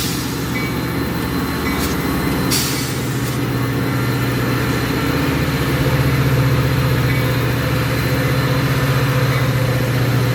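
Metra commuter train's diesel locomotive running steadily, its engine drone strengthening slightly partway through. A short hiss comes about two and a half seconds in.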